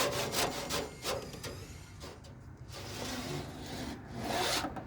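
Quick rhythmic rubbing and scraping strokes, about four to five a second, that fade after a second and a half. A louder scraping rustle comes near the end.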